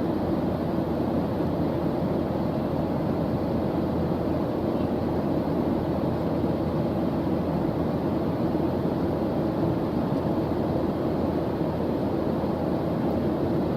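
A steady white-noise background track, weighted toward the low end, a constant deep hiss with no change in level.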